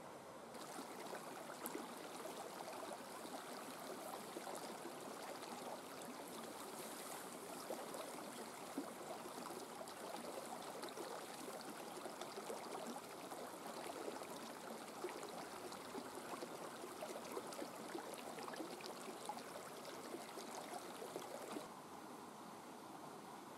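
Steady rain falling: a dense, even patter with many small drop ticks, starting about half a second in and cutting off suddenly near the end.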